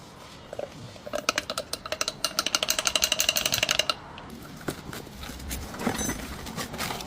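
Metal tools clinking. A fast run of metallic clicks with a ringing tone lasts from about one to four seconds in, followed by a few scattered knocks.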